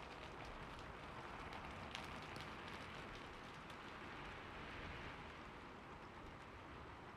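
Steady rain falling, with a few sharper drop ticks standing out in the first couple of seconds.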